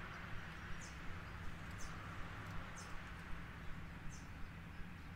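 A bird giving short, high chirps about once a second, over a steady low hum.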